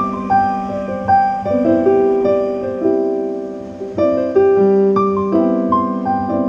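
Background piano music: sustained chords with a melody of single notes above, struck about once a second.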